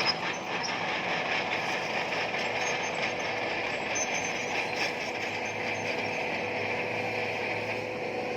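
Heavy earthmoving machinery running steadily, a bulldozer's diesel engine with irregular metallic clanking and brief squeaks over the first half. A steady whine holds from about six seconds in.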